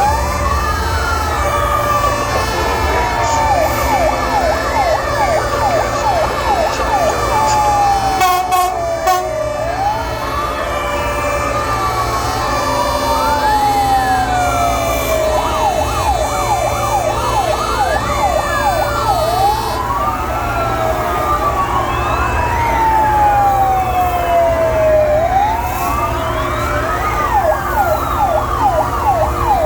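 Several fire-engine sirens sounding at once: slow rising-and-falling wails overlap fast yelping sweeps, over a low engine rumble.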